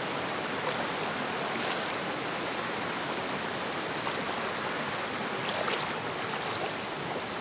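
Steady rush of flowing water from a creek or waterfall, an even unbroken hiss.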